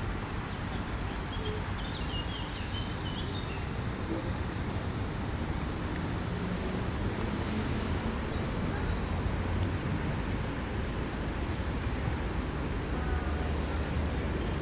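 Park ambience: a steady low hum of city traffic, with a few short bird chirps and faint voices.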